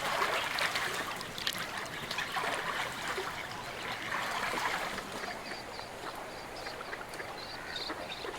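Water trickling and lightly splashing, with small irregular clicks. From about halfway through, faint short high chirps repeat over it.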